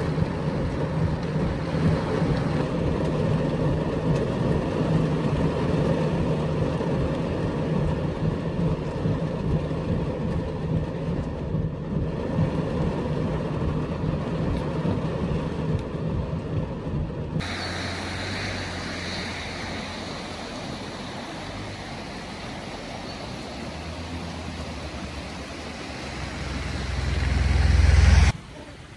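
Heavy rain pouring down on a car with its engine running, a steady dense hiss over a low hum. About two-thirds of the way through, the sound changes to a quieter rain, and a low rumble swells loudly just before the end.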